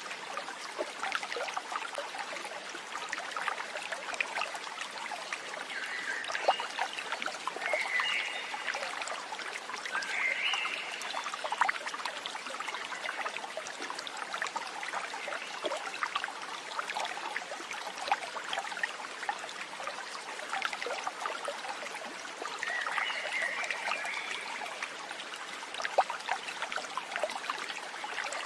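Steady trickling of running water, like a small stream, with short chirping calls breaking in a few times.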